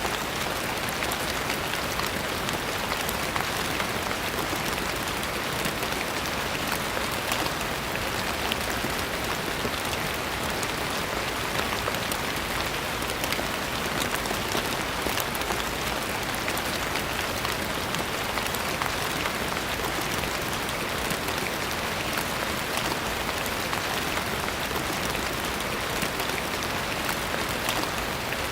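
Steady rain falling on a surface, an even hiss dotted with many small drop taps.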